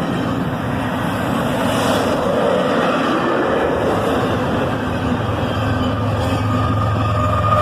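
Intermodal freight cars of a CSX train rolling past at speed: a steady rumble and rush of steel wheels on the rails. A low drone comes in near the end as the distributed-power locomotive nears.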